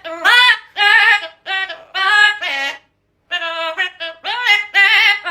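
A high singing voice, unaccompanied, in short held notes with a wavering pitch. It breaks off briefly about three seconds in.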